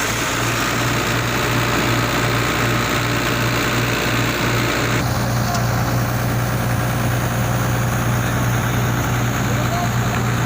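XCMG excavator's diesel engine running steadily at idle, just restarted after its fuel system was hand-primed following a Racor fuel filter failure. Its higher hiss drops a little about five seconds in.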